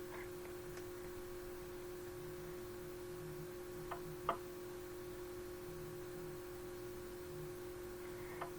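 Two short, sharp raps about half a second apart, the second louder, with a glass-tapping quality, over a steady electrical hum in a CCTV audio recording; a fainter click follows near the end. The raps are unexplained; the investigator likens them to tapping on glass.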